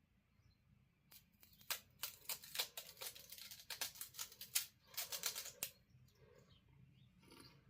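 Crunching of a crispy seaweed roll being bitten and chewed: dense runs of quick, crisp crackles from about two seconds in until a little before six seconds, then stopping.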